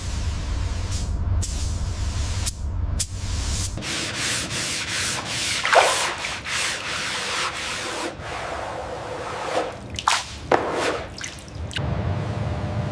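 Sanding: repeated rasping rubbing strokes over a surface, with a couple of short squeaks in the middle. A low steady hum sits under the first few seconds and comes back near the end.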